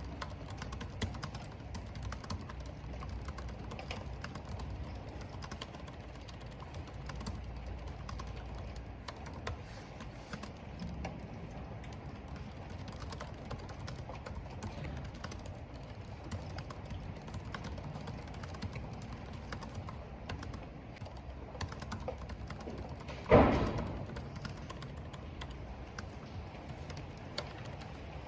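Typing on a computer keyboard: a steady stream of light key clicks over a low rumble of wind and rain. One much louder thump comes about three-quarters of the way through.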